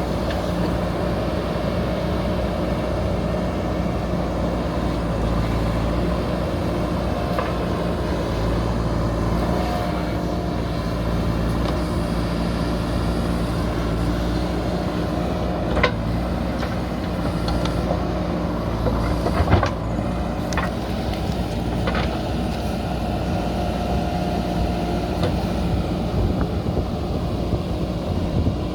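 Heavy earthmoving machine's diesel engine running steadily under work, with a few sharp knocks around the middle.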